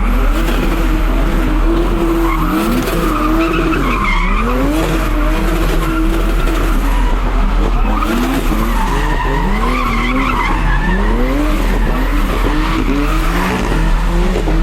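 A car drifting: its engine revs up and drops back over and over, with tyres squealing.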